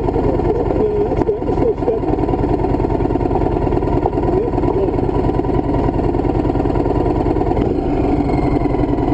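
Motorcycle engine running steadily, its note shifting slightly about eight seconds in.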